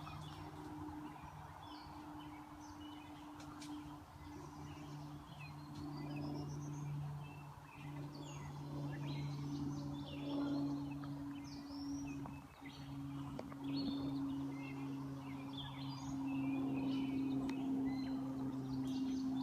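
Birds chirping and calling in short bursts, over a steady low drone.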